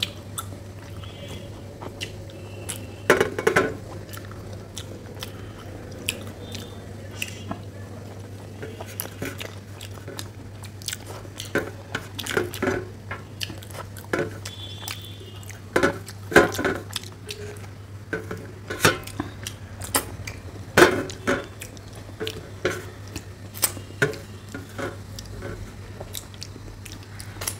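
Close-miked chewing and mouth sounds of people eating puri and curry, with irregular wet smacks and clicks. There is occasional scraping of fingers on steel plates.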